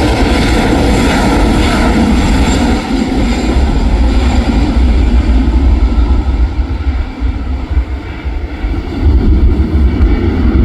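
Jet engines of an Airbus A320-214 (CFM56 turbofans) passing and then fading as the aircraft draws away, with gusty wind rumbling on the microphone throughout.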